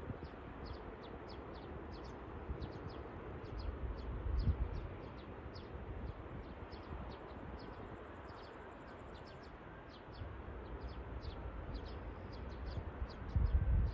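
Birds chirping over and over in short, quick, falling notes, with wind gusting on the microphone about four seconds in and again near the end.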